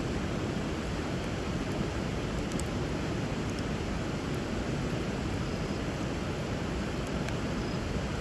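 River water flowing steadily under a wood bonfire, with a few faint pops from the burning wood.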